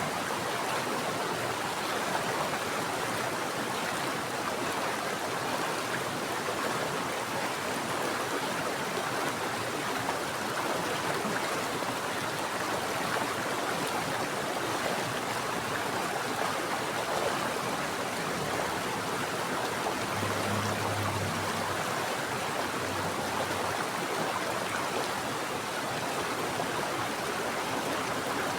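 Mountain stream water flowing steadily, an even rushing hiss.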